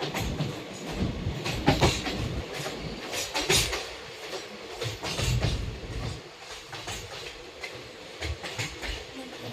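Moving train with a steady rumble and uneven clacks of the wheels running over rail joints.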